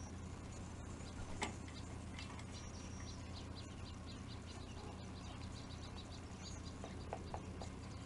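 Small birds chirping in a quick run of short high notes, with a single sharp tap about a second and a half in and a few lighter knocks near the end, over a steady low hum.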